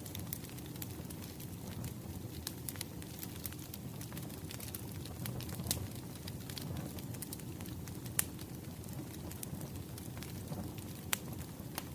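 Wood fire crackling: irregular sharp pops and snaps over a steady low rumble of burning, with a couple of louder pops about 8 and 11 seconds in.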